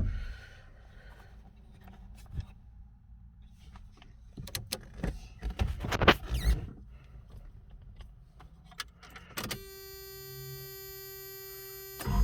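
A few scattered clicks and rattles, then a steady, evenly pitched electronic warning buzz from the 1989 Toyota pickup's dashboard as the key is turned. The buzz stops abruptly near the end, as a loud low engine sound begins.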